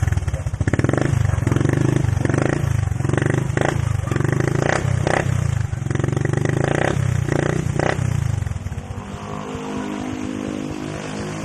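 Suzuki Smash underbone motorcycle's single-cylinder four-stroke engine being revved through its aftermarket exhaust for a sound test: a series of quick throttle blips, then it drops back to a steady idle about eight and a half seconds in.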